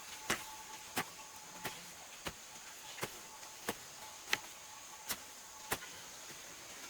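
Repeated sharp strikes of a hand tool, evenly paced at about three every two seconds, over a faint steady high-pitched hiss.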